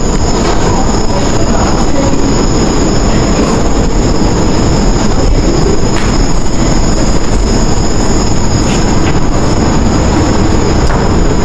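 Pavilion's rainforest soundscape: a steady high insect-like buzz of night jungle insects over a loud, constant rumbling background.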